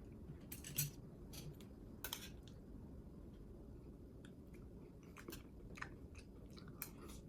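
A person quietly chewing a mouthful of food, with a few faint clicks of cutlery or dishes scattered through it.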